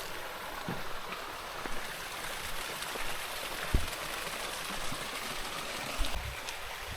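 A stream running steadily, with a few soft low thumps.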